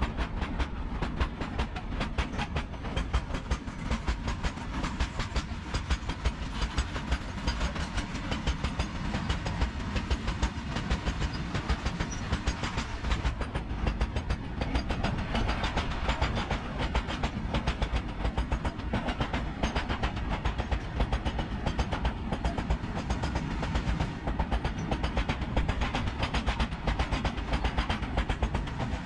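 Loaded BOXN open freight wagons rolling past close by: steel wheels clattering steadily over the rail joints with a continuous rumble, in a quick, even run of clicks.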